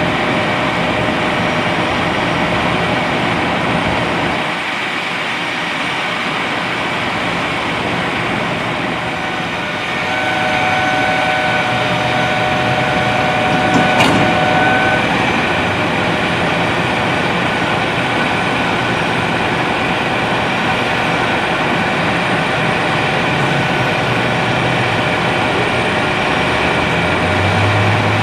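Steady rumble of heavy vehicle engines and traffic, with a steady high tone for a few seconds about a third of the way in and a sharp click about halfway.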